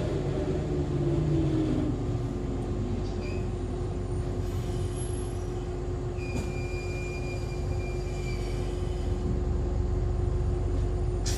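Interior sound of an Echizen Railway MC6101-series electric railcar with MT54 DC traction motors slowing for a station stop. The motor and gear whine falls away in the first second or two, leaving a steady low hum. A high brake squeal comes for a couple of seconds in the middle, and near the end there is a sharp hiss of air.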